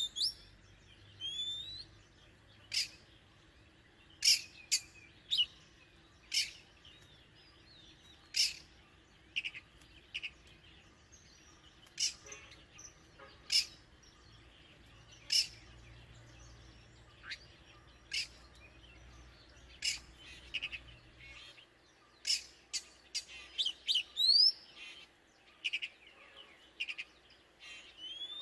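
Oriental magpie-robin calling: short, sharp separate notes and brief rising whistles, spaced a second or two apart.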